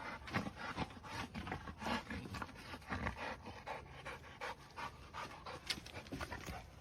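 A dog panting, a steady run of quick breaths repeating a few times a second.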